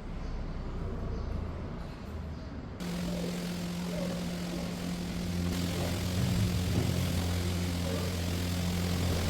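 A steady mechanical hum with two low tones starts abruptly about three seconds in over a wide noisy background, and grows a little louder around the middle.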